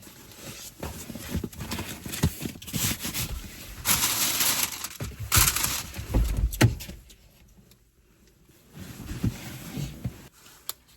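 Handling noises: rustling, scraping and light knocks as things are moved around in a car, with a low thud about six and a half seconds in, then a quiet spell.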